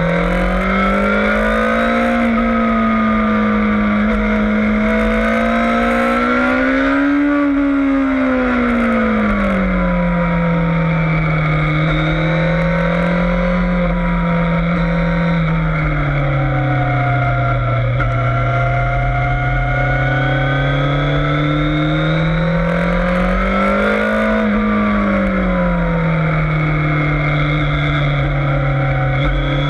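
Yamaha FZS600 Fazer's inline-four engine running hard on a race track, its pitch climbing and falling smoothly as it accelerates and backs off, peaking about seven seconds in and again near twenty-four seconds, lowest in the middle. A rushing hiss of wind comes and goes over it.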